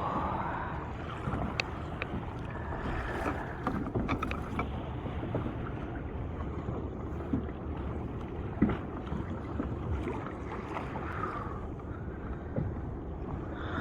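Water washing against a fishing kayak's hull, with wind noise on the microphone and a few light knocks scattered through.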